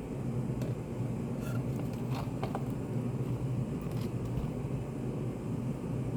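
Study cafe room ambience: a steady low hum, with a few faint light taps and clicks about two seconds in and again near four seconds.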